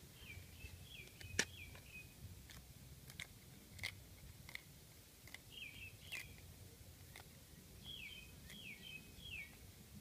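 A small bird calling in three short runs of quick falling chirps: at the start, around the middle and near the end. Between them come scattered sharp clicks and crackles of hands handling a leaf and dry litter, the loudest about one and a half seconds in.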